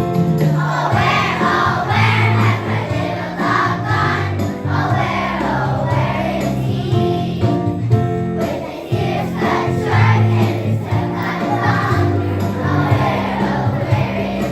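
Music: a group of voices singing over a steady instrumental backing.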